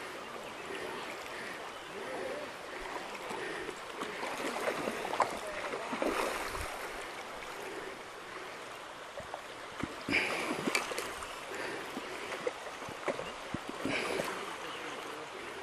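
Fast-flowing river water rushing steadily, with a few short sharp sounds about ten seconds in and again near the end.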